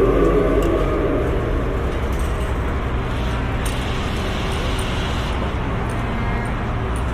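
Steady low engine-like rumble of construction-site ambience, with a brief added hiss from about three and a half to five and a half seconds in.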